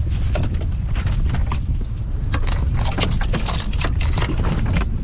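A quick, irregular run of knocks and scrapes inside a small fishing boat, thickest from about two seconds in, over steady wind on the microphone and the boat's low rumble.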